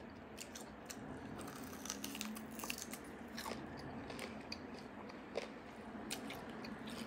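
Mouth sounds of eating roasted beef bone marrow: soft, wet chewing with many small scattered smacks and clicks.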